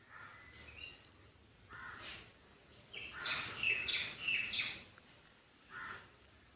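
Baby budgies calling while being hand-fed: short raspy calls, and from about three seconds in a louder burst of high squeaky chirps.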